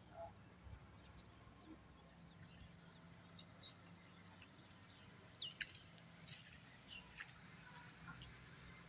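Faint bird chirps, short and scattered, with one clearer whistled call about halfway through, over a low steady hum.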